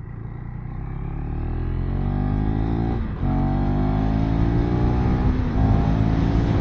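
KTM 390 Enduro R's single-cylinder engine accelerating hard up through the gears, its pitch rising then dropping twice at the upshifts, about three seconds and five seconds in. Wind rush grows with speed.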